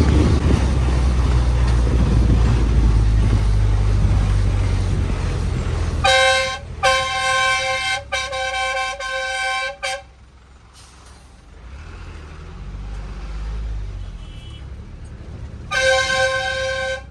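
A loud low rumble of traffic on the road for about six seconds. Then a vehicle horn sounds in a short blast followed by a longer, broken one lasting about three seconds. After a quieter stretch, another horn blast comes near the end.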